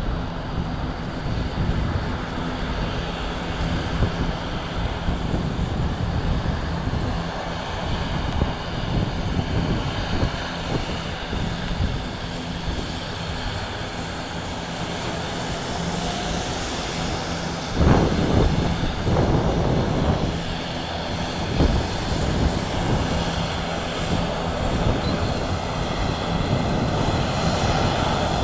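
ATR 72-600 turboprop's Pratt & Whitney PW127 engines and propellers running, a steady rumble with a faint low hum. A sudden louder burst of noise comes about two-thirds of the way in.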